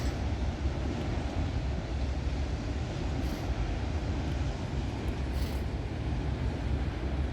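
Freight train cars rolling past: a steady low rumble of wheels on rail, with two brief higher hisses partway through.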